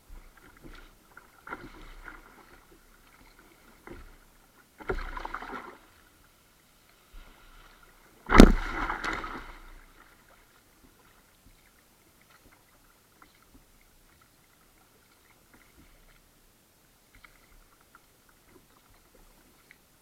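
Kayak paddle strokes splashing in the water: three strokes a few seconds apart, the third, about eight seconds in, the loudest and sharpest. After that it goes quiet, with only a few faint ticks.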